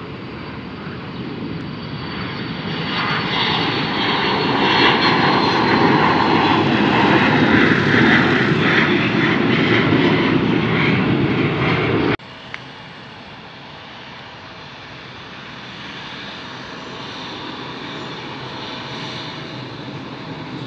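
Jet airliner engines growing louder as the plane passes close, with a high whine that falls slightly. About twelve seconds in, the sound cuts off abruptly to a quieter, steady engine noise that slowly builds again.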